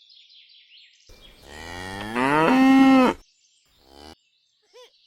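A cow mooing once, a long call of about two seconds starting about a second in, its pitch rising and then holding steady before it cuts off. Faint high chirps come before it.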